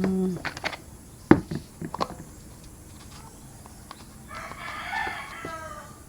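A rooster crowing once, about four seconds in, a call of a second and a half that falls slightly at the end. Earlier, a single sharp knock about a second in, the loudest sound, and a few lighter clicks.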